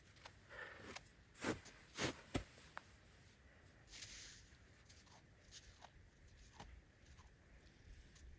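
Icy, hard-packed snow crunching: four sharp crunches in the first two and a half seconds, then fainter crunches and scrapes.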